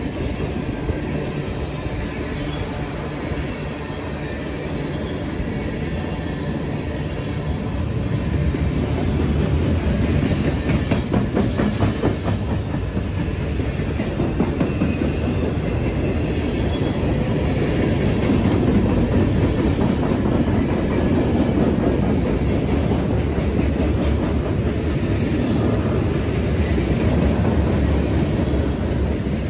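Freight cars of a passing train (tank cars, steel-plate flatcars and covered hoppers) rolling by steadily: a continuous rumble of steel wheels on the rails, with clicking as the wheels cross rail joints.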